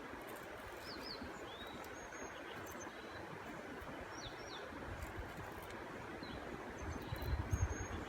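Outdoor ambience: a steady hiss with several short bird chirps throughout. Near the end come low gusts of wind on the microphone.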